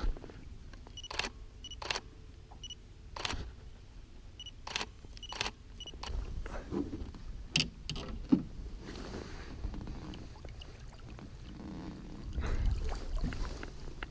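Sharp clicks and knocks at irregular intervals, about a dozen of them, over a low rumble.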